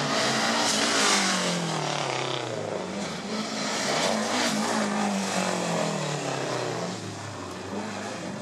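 Rally car engine revving hard along a stage, its pitch climbing and dropping several times through gear changes and lifts. It is loudest about a second in and fades somewhat near the end.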